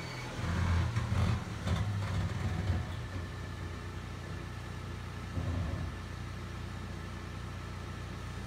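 Mercedes-Benz C-Class (W206) engine idling with a steady low hum. It swells louder for the first few seconds and again briefly about five seconds in.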